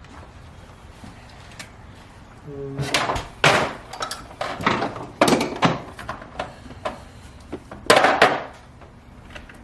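A run of sharp knocks and clunks, several in a row and then a last loud pair near the end, as car parts are handled and fitted in the work area.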